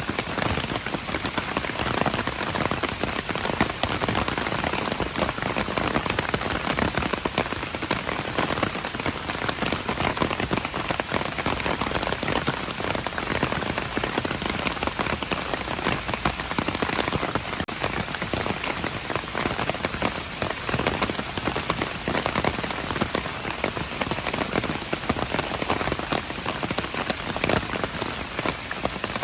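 Steady rain falling on hard surfaces: a dense, even patter of countless drops.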